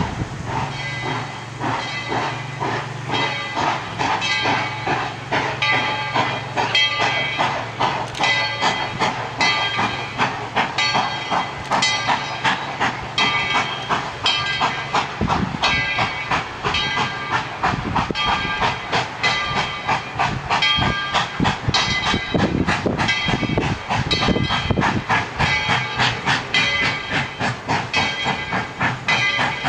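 ET&WNC No. 12, a narrow-gauge 4-6-0 steam locomotive, working along with steady rhythmic exhaust beats and hissing steam.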